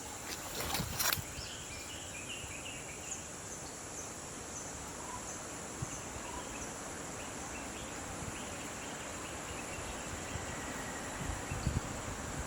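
Steady high-pitched drone of insects with a few faint bird chirps. Two sharp knocks about a second in, and a few low thuds near the end.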